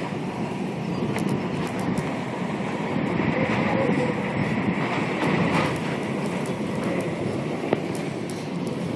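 Strong storm wind and driving rain making a steady, loud rushing noise, with scattered small ticks.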